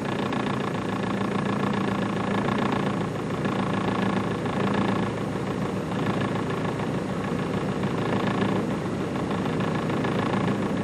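A motor vehicle's engine idling steadily, with a constant hum.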